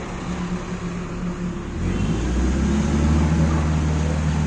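A heavy vehicle's engine running, growing louder about two seconds in.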